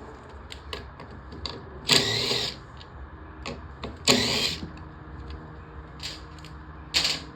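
Three short bursts of a handheld power tool, each under a second, about two, four and seven seconds in, with light clicks of tools and parts between them, as the mower's airbox and carburetor are taken off.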